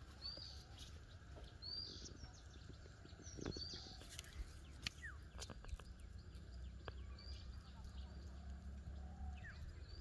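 Faint short bird chirps repeating about every two seconds over a steady low rumble, with a few light clicks.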